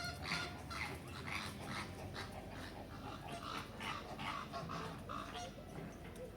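Several birds calling at once in short, repeated notes, several calls a second.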